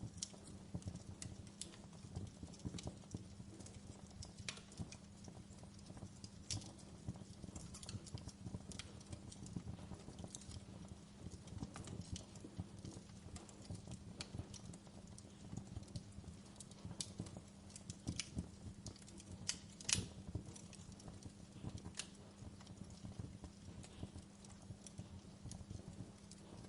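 Wood fire in a fireplace crackling, with irregular pops and snaps; one louder pop about twenty seconds in.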